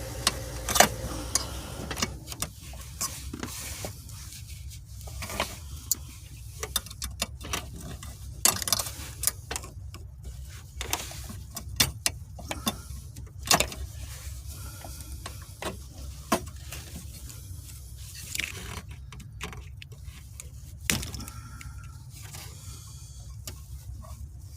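Irregular metallic clicks, clinks and knocks of hand tools and shifter parts being handled during manual-shifter removal, over a steady low hum.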